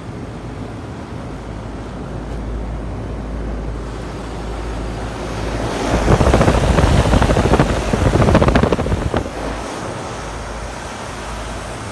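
Wind buffeting the microphone over a steady low rumble, with a loud gust from about six to nine seconds in.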